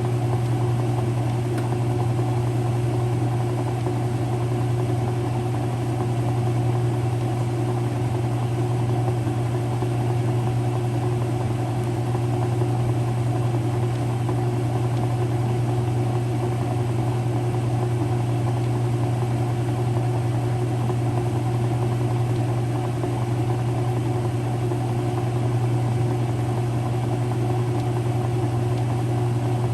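Early-2000s Whirlpool direct drive washer running through its wash agitation, giving a steady motor hum.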